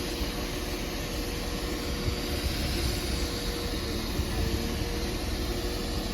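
Northern Class 195 diesel multiple unit running at the platform: a steady engine rumble with a held whine that breaks off briefly about four seconds in.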